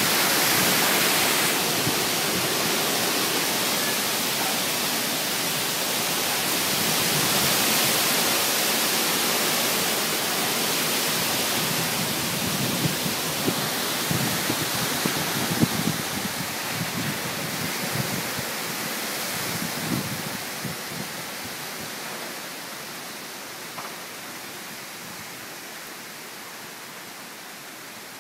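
Loud, steady rushing of storm wind, with gusts buffeting the microphone in the middle, gradually dying down toward the end.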